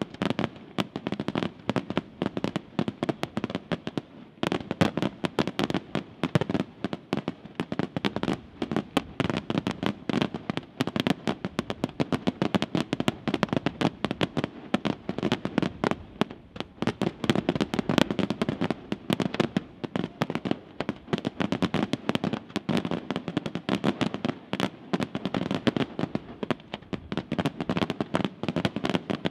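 Aerial firework shells bursting in a dense barrage: many sharp bangs in quick succession, without let-up.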